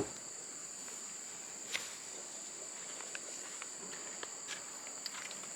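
Steady high-pitched insect drone in two pitches, with a few light knocks, the clearest about two seconds in.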